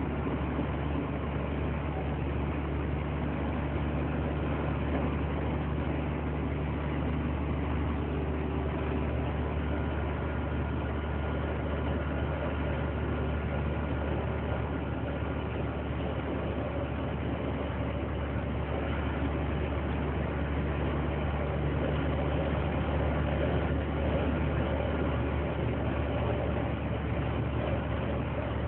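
Scania 124 L 360 truck's 12-litre inline-six diesel engine idling steadily.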